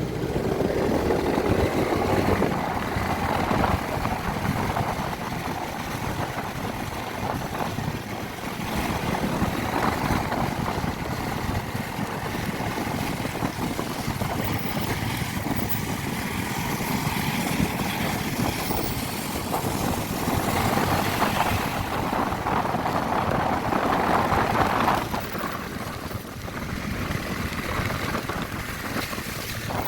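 Honda CB150R motorcycle's single-cylinder engine running on the move, with wind rushing over the microphone.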